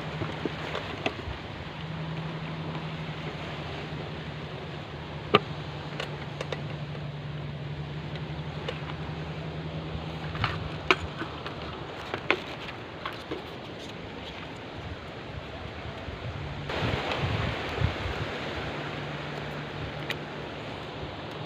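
Wind noise over a steady low hum, with scattered light clicks and knocks of fishing gear being handled and packed away. A louder gust of noise swells up about seventeen seconds in.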